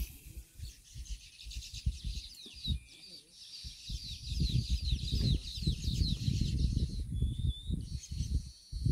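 Birds calling: a fast run of short, high, downward-sliding chirps that goes on for several seconds, over an uneven low rumble.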